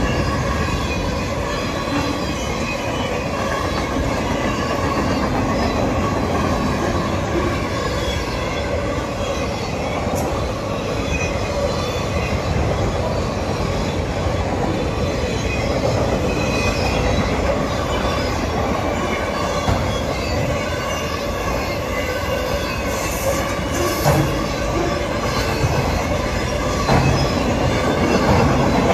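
A train running along the track: a steady rumble of wheels on rails, with a faint wheel squeal held on a couple of thin tones.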